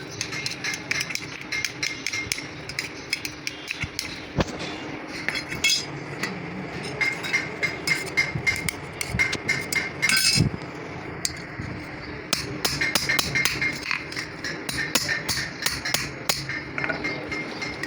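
Hammer tapping on metal during clutch plate repair, in rapid runs of light strikes with a few heavier blows, over a steady hum.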